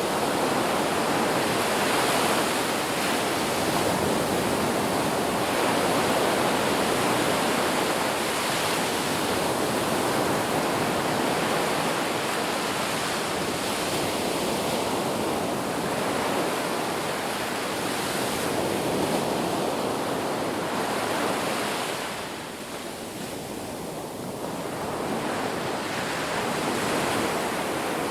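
Ocean surf washing onto a beach: a continuous rush of breaking waves that swells and eases, with a brief lull about three-quarters of the way through before it builds again.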